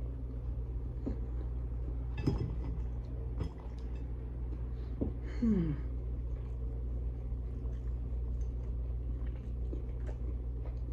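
Faint chewing of a mouthful of steak and egg sandwich on French bread, with a few soft mouth clicks and a short falling "mm" about five and a half seconds in, over a steady low hum.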